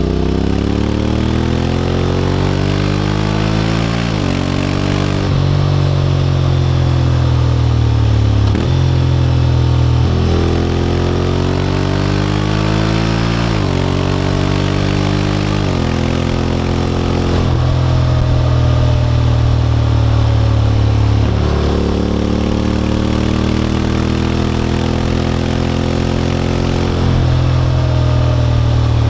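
Honda X-ADV 750 parallel-twin engine through an SC-Project titanium slip-on exhaust, under way. The engine note climbs in pitch and drops sharply several times, as the dual-clutch gearbox shifts, with stretches held at a steady pitch.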